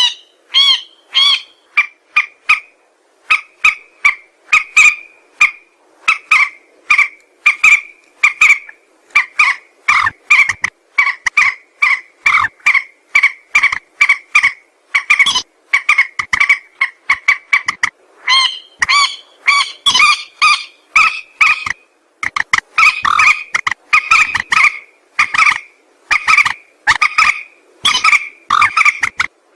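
Mandar sawah, a rail, calling over and over: a long string of short, croaking calls, about two a second, broken by a few brief pauses.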